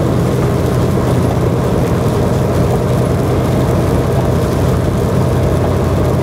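Semi truck's diesel engine running steadily under a load of about 40,000 pounds, with road noise, a constant low drone while driving.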